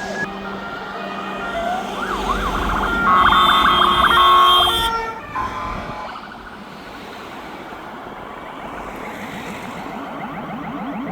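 Fire engines driving past with wailing sirens; about three seconds in a loud horn blast of several steady tones sounds for about two seconds, then the sirens drop back under the vehicles' running noise.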